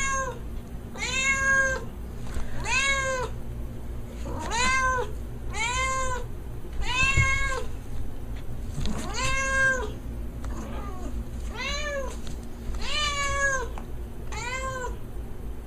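A kitten meowing repeatedly, about eleven high-pitched meows, each rising and then falling in pitch, one every second or so, over a faint steady low hum.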